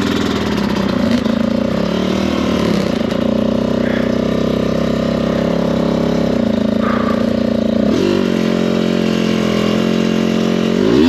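Off-road dirt bike engine running at steady revs. About 8 s in the engine note changes, and near the end it revs up and drops back in a quick rise and fall.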